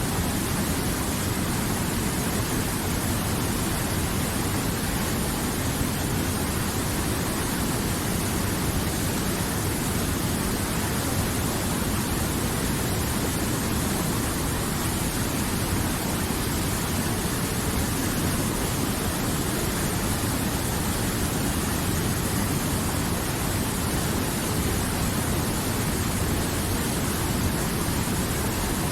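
River water flowing: a steady, even rush with no pauses or changes.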